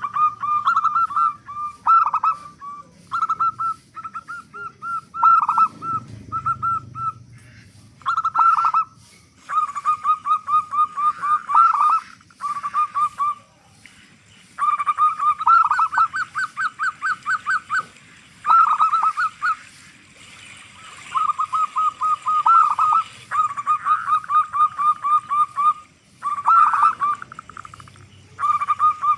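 Zebra dove (local perkutut) cooing again and again in phrases of rapid staccato notes, with short pauses between phrases, as a lure call.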